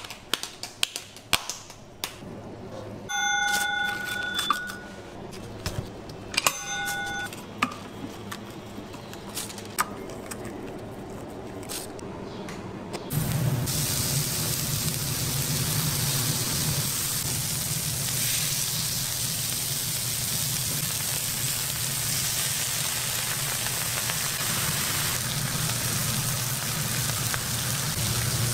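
Ground meat being slapped and thrown by hand in steel mixing bowls, a run of sharp separate slaps. About halfway in this gives way to burger patties frying on a flat-top griddle, a loud steady sizzle.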